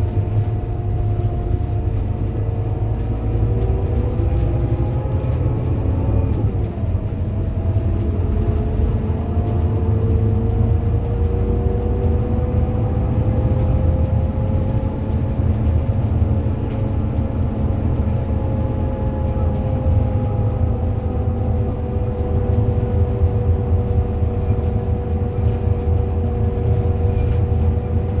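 Scania K230UB city bus under way, its engine rumbling low with a whine from the ZF Ecomat automatic gearbox that rises as the bus gathers speed. The pitch drops sharply at a gear upshift about six seconds in, then climbs slowly again and levels off.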